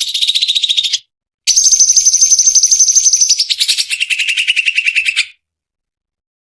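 Cucak cungkok singing rapid trilled phrases: a trill falling in pitch, a short break, a high steady trill, then a lower trill. The song stops abruptly about five seconds in.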